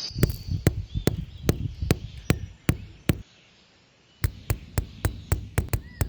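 A series of sharp knocks or chopping strikes, about two a second, then a pause of about a second, then a quicker run of about four a second.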